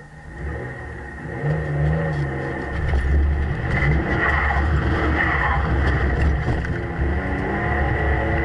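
Car engine accelerating hard, getting louder over the first few seconds, then running on as a loud, steady low rumble.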